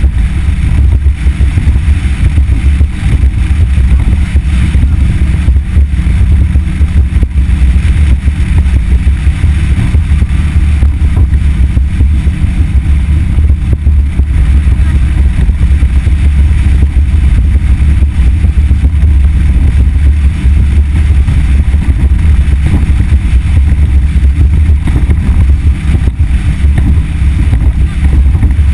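Motorboat running steadily under way with a Yamaha F60 four-stroke outboard, wind buffeting the microphone: a loud, unbroken low rumble.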